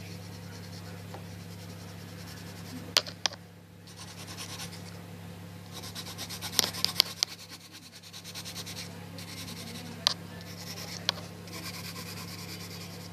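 Watercolour pencil shading on paper: a steady scratchy rubbing of quick back-and-forth strokes, broken by a few sharp taps, over a low steady hum.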